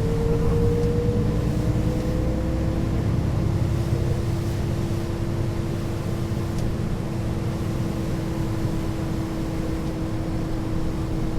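Mercedes-Benz O 530 G Citaro articulated bus's diesel engine and ZF automatic gearbox running under way: a steady low rumble with a drivetrain whine that climbs slowly in pitch, a second, higher whine fading out about three seconds in.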